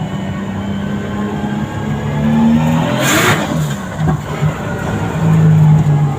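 Drift car's engine under hard driving, the revs climbing about two seconds in, dropping back, then held high again near the end, with a short burst of noise about three seconds in.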